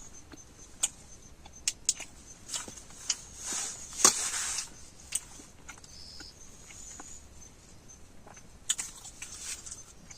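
A person eating near the microphone: chewing with scattered sharp mouth and food clicks, and a short rustle about four seconds in.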